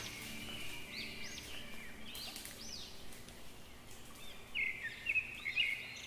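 Small birds chirping: repeated short rising-and-falling high chirps over a faint steady background, with a louder run of notes about two-thirds of the way through.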